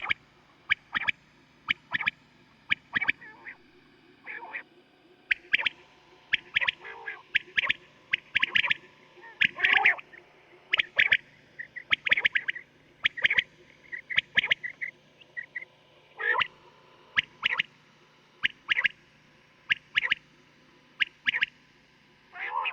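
Quails calling, recorded as a hunting lure: many short, sharp calls in quick, irregular clusters over a faint steady low hum.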